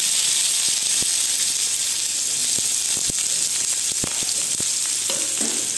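Chopped onion sizzling in hot mustard oil in a kadai: a steady frying hiss with scattered pops and crackles.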